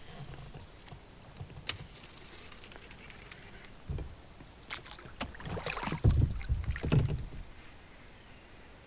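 Kayak paddling on a river: paddle strokes splashing and knocking on the water, with a sharp click about two seconds in and a run of louder splashing strokes past the middle.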